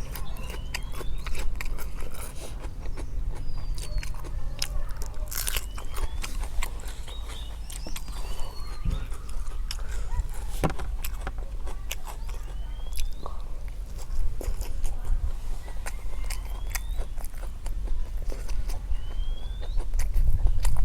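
Low, steady rumble of military vehicles' engines running, with short chirping bird calls that rise or fall, one every few seconds, and scattered sharp clicks.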